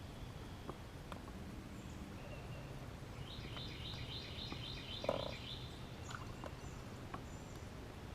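A bird singing a quick series of repeated high notes over a steady low outdoor rumble, with a single short knock about five seconds in.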